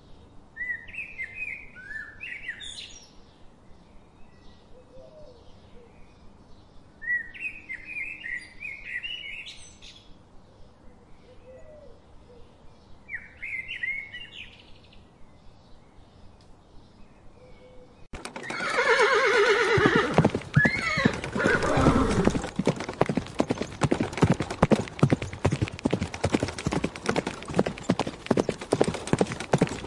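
Three short bursts of bird calls over a faint ticking, about two ticks a second. About two-thirds of the way in, a horse whinnies loudly in a falling neigh, then a fast clatter of hooves clip-clopping follows.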